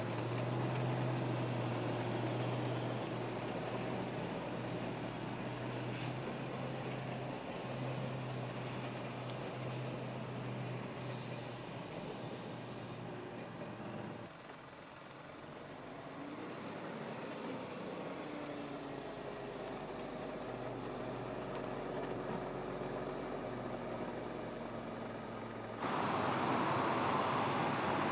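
Car engine running steadily, with a change about halfway through and a sudden jump in loudness near the end.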